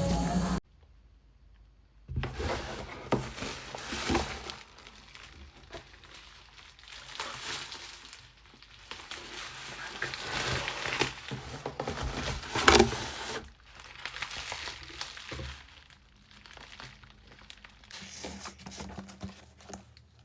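Plastic packaging crinkling and rustling by hand, with some tearing, as a package is unwrapped; one sharper, louder crackle about thirteen seconds in.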